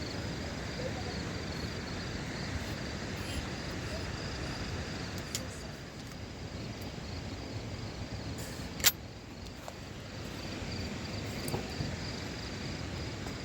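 Crickets chirping steadily in a fast, even pulse over a low outdoor noise, with a sharp click about nine seconds in and a fainter one a few seconds before.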